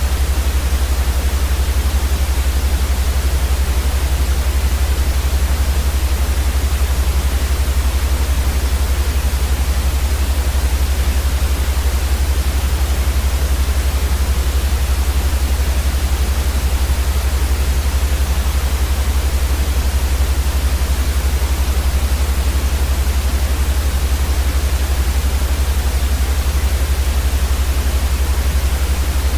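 Steady electronically generated white noise: an even, unchanging hiss with a strong deep rumble underneath.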